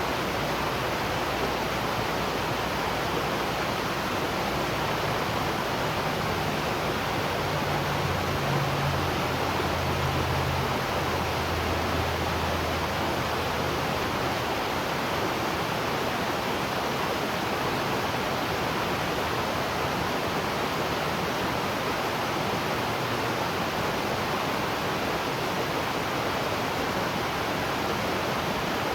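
Waterfall: a steady, unbroken rush of falling water. A faint low rumble joins it for several seconds in the first half.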